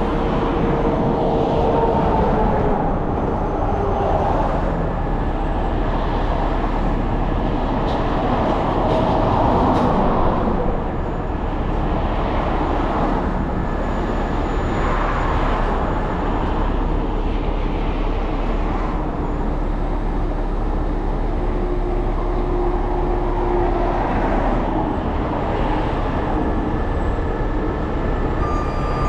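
Vehicle driving along a road: steady engine and road noise, with faint rising and falling engine tones as it changes speed.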